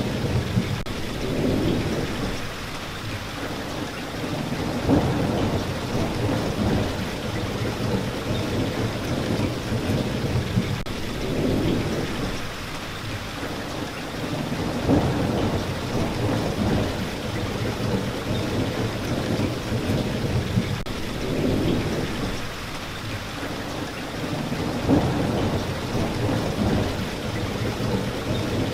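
Steady rain, with low rumbles of thunder swelling and fading every few seconds.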